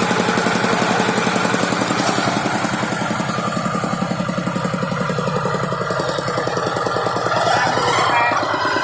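Farm tractor engine running with a rapid, even chugging beat.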